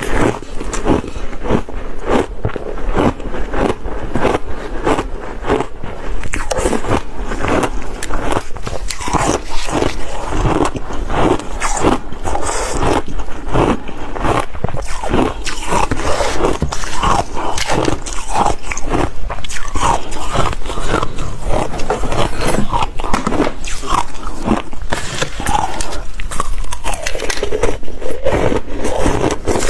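Close-miked ice being bitten and chewed: a steady, dense run of sharp, loud crunches and cracks.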